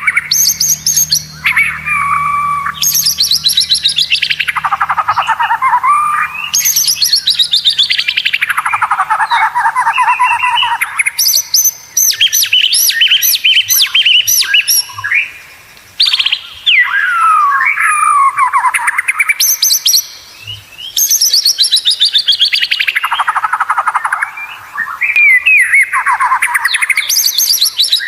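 White-rumped shama (murai batu) singing continuously: long fast trills that slide down in pitch, alternating with bursts of rapid, very high repeated notes, in phrases a few seconds long.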